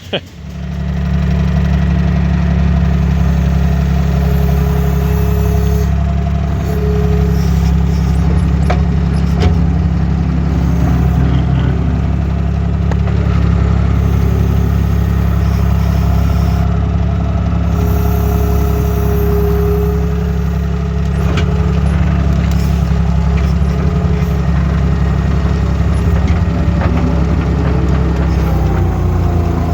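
Skid steer loader's engine running steadily at a constant speed, with a low, even drone.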